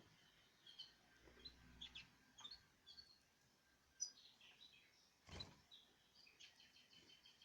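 Canaries giving faint, short chirps and tweets. A sharp click comes a little past halfway, and a brief rustle follows about a second later.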